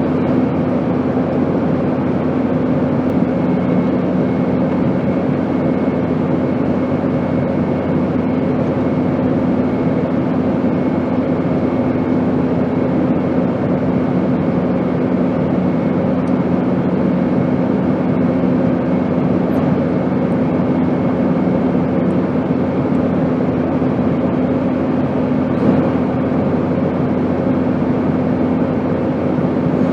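Steady airplane noise used as white noise: an even rush with a few constant low hums and a faint high tone, unchanging.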